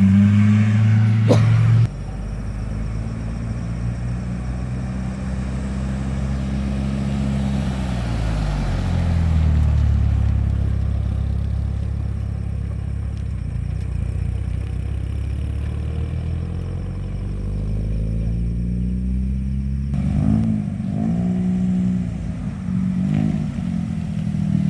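Car engines running: a steady low engine note whose pitch falls about eight seconds in, then a few short revs about twenty seconds in. A sharp click about two seconds in, after which the sound drops.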